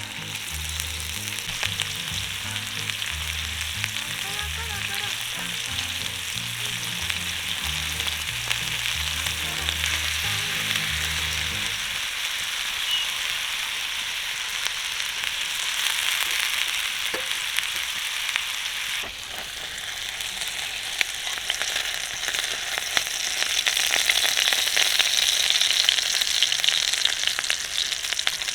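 Food frying in hot oil in a pan, a steady sizzle that grows louder near the end. A faint low bass line of background music runs under it for the first part.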